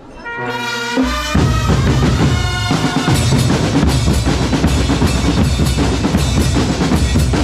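Drum corps music. Held pitched notes open it, and about a second in the drum line comes in loud, with bass drums and snares beating fast under the melody.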